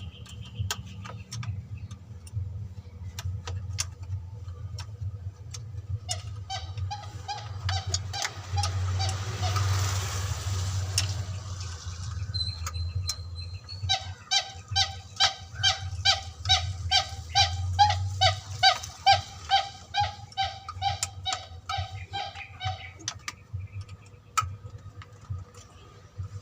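A bird honking in quick repeated calls, about two a second, in a short bout and then a longer one, over a steady low hum. A burst of hiss swells and fades between the two bouts.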